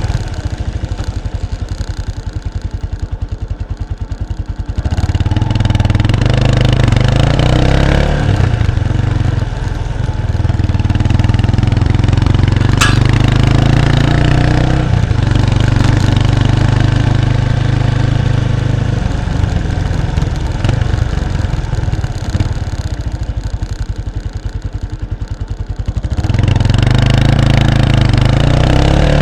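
Exhaust of a 1993 Kawasaki Estrella's 250cc single-cylinder engine through its stock muffler, heard close up at the rear of the bike while riding. It runs quietly on a closed throttle at first, then opens up about five seconds in and rises in pitch as the bike accelerates. It then holds a steady cruising note, eases off again, and picks up once more near the end.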